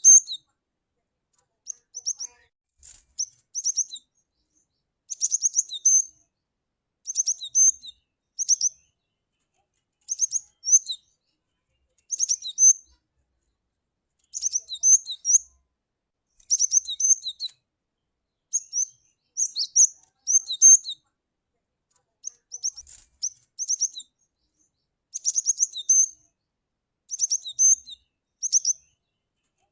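Cinereous tit (gelatik batu) calling: short phrases of quick, high chirps, repeated every second or two with brief silent gaps between.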